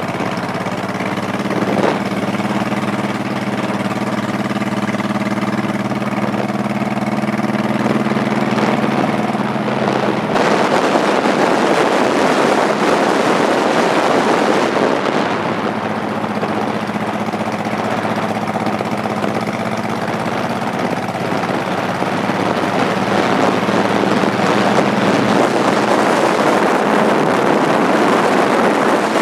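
Motorcycle engine running steadily while riding, with loud wind rushing over the microphone that takes over about ten seconds in and partly drowns out the engine.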